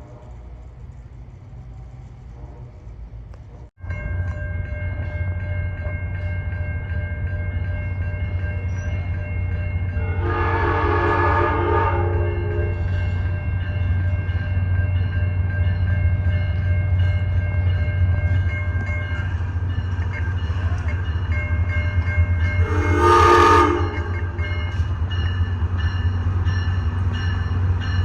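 A train's diesel locomotive running loud and steady as it passes, sounding its horn twice: a blast of about two seconds, then a shorter, louder one later. A quieter background cuts off abruptly about four seconds in, where the train sound begins.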